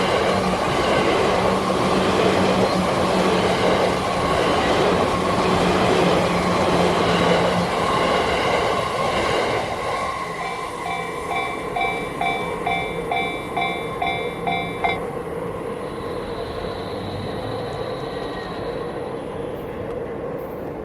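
A Yamanote Line electric train passes over a level crossing, rumbling loudly for about the first half. As it fades, the crossing's warning alarm is heard clanging about twice a second, then it stops suddenly a few seconds later, signalling that the crossing is clearing.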